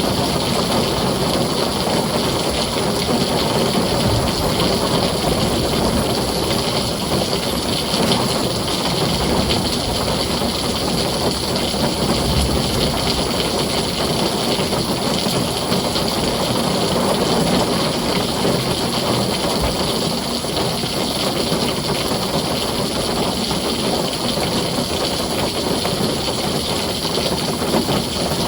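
Heavy rain falling steadily on a tin roof, an even, unbroken hiss with no thunder standing out.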